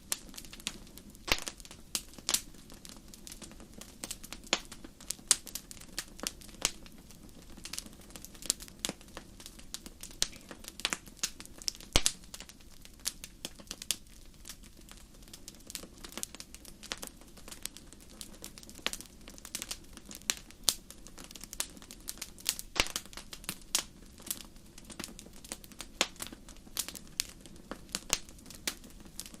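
Campfire crackling: irregular sharp pops and snaps of burning wood, several a second, over a steady low rumble of the fire.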